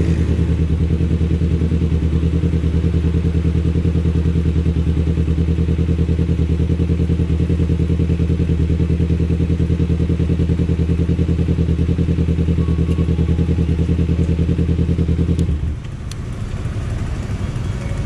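Kawasaki Ninja 250FI parallel-twin engine breathing through an R9 H2 aftermarket exhaust, running at a steady engine speed with an even, pulsing note. The note cuts off suddenly about fifteen seconds in, leaving a quieter background noise with a few clicks.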